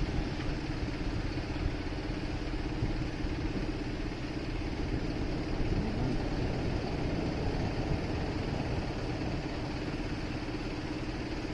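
Motorcycle engine running steadily, with one held engine tone over street traffic noise; a short rising engine note comes about six seconds in.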